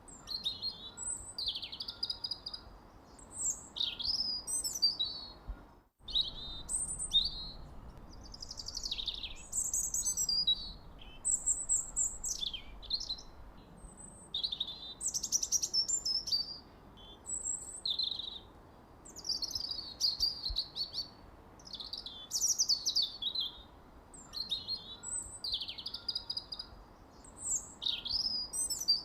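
Songbirds chirping and singing: a steady string of quick, high phrases of sweeping whistles and trills with short pauses between them, over a faint hiss. The sound cuts out completely for a moment about six seconds in.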